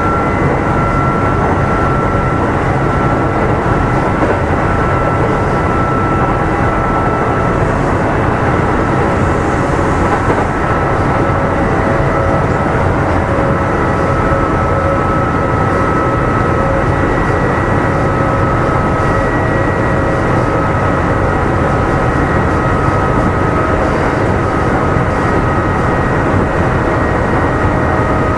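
Kintetsu 2800 series electric train running between stations, heard from inside the motor car: a steady rumble of wheels on rail with several steady whining tones from the drive that sink slightly in pitch.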